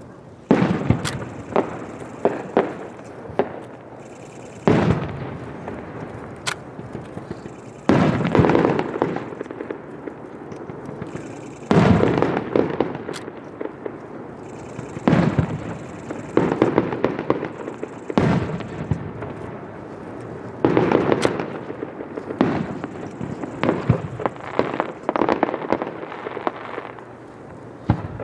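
Aerial fireworks bursting, one loud bang every three to four seconds, each trailing off in crackle, with sharp pops in between.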